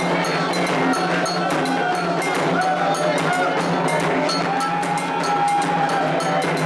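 Candomblé atabaque drums and a metal bell (agogô) playing a steady rhythm for Oxóssi, with voices singing long, held chant lines over the drumming.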